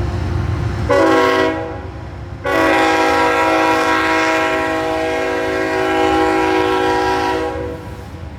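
Union Pacific freight locomotive's multi-note air horn sounding a short blast about a second in, then a long blast from about two and a half seconds in that stops near the end, over the low rumble of the passing train.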